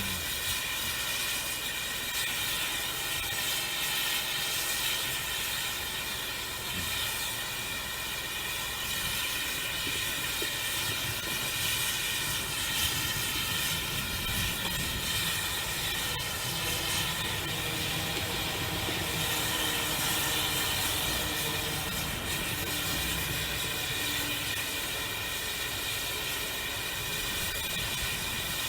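Steam locomotive hissing steadily as steam escapes, with a continuous high hiss and a few steady tones over it.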